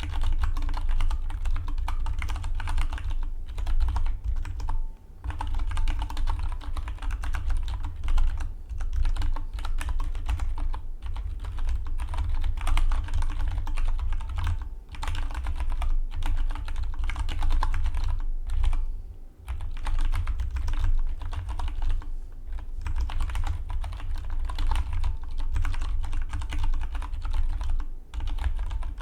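Fast, continuous typing on a Dygma Defy split mechanical keyboard, the keystrokes running together, with brief pauses about five, nineteen and twenty-eight seconds in.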